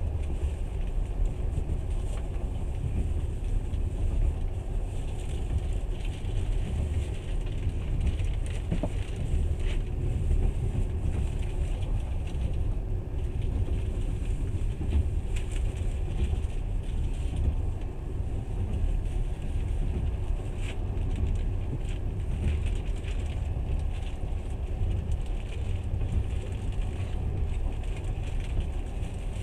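Passenger train running at speed: a steady low rumble of the wheels on the rails.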